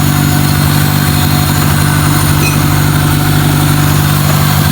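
Toyota Corolla AE101's 4A-FE four-cylinder engine idling steadily.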